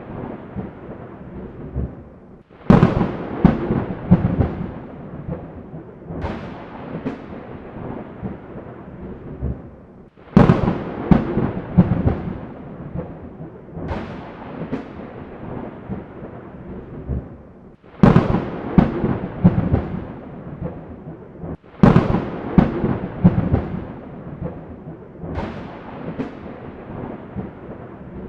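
Thunder: repeated close thunderclaps, each a sharp crack followed by a rolling rumble that dies away, coming every second or two. Several times the sound cuts abruptly from one clap straight into a fresh loud one, as in an edited run of thunder recordings.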